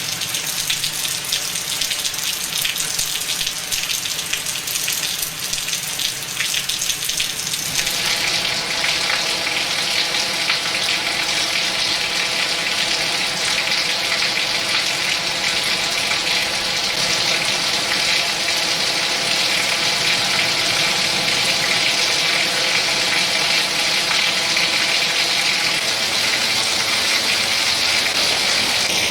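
Heavy hurricane rain pouring down in a steady hiss of water noise. About eight seconds in it switches abruptly to a louder, hissier downpour.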